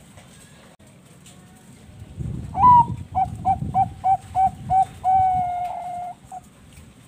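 Zebra dove (perkutut bangkok) singing one song phrase: a rising opening note, a run of about seven quick short coos, then a long held coo.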